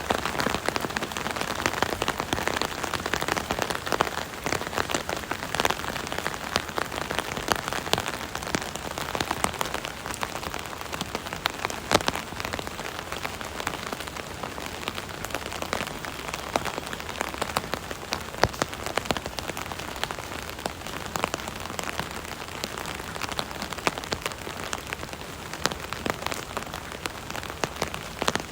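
Steady rain pattering on an umbrella canopy, with a dense stream of individual drops ticking sharply on the fabric.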